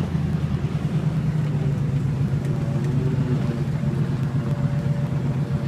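A 1968 Chevelle SS 396's big-block V8 running steadily under light throttle as the car drives, heard from inside the cabin: a low, even, pulsing engine sound with no revving.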